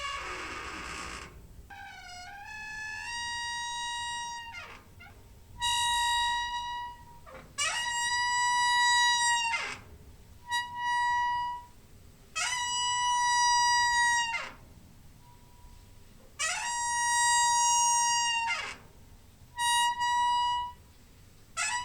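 Door hinge squeaking over and over: a series of drawn-out creaks, each held at one pitch for a second or two, several ending in a falling glide.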